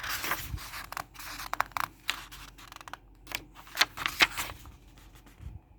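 Paper pages of a picture book being handled and turned: a string of short rustles, scrapes and clicks, loudest about two and four seconds in.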